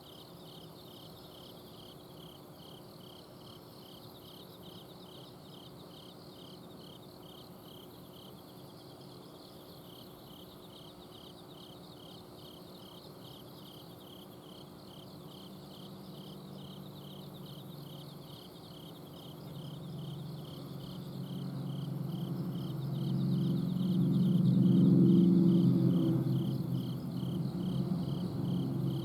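Autumn crickets chirping at night in a steady, regular pulse, about two to three chirps a second, with a fainter trill above. A low rumble swells from about two-thirds of the way in, is loudest near the end, then eases off.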